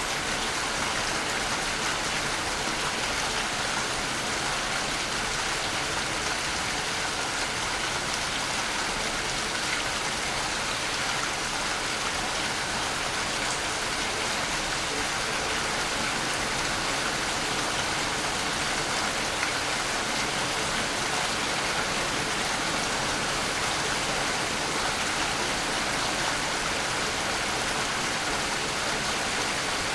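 Waterfall: falling water rushing with a steady, even hiss that does not change.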